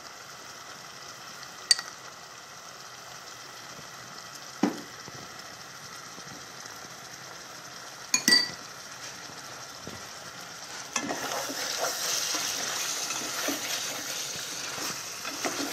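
Chicken pieces sizzling in spiced oil in a pan as they are fried and stirred, with a spoon clinking against the pan a few times. The sizzling grows louder from about 11 seconds in.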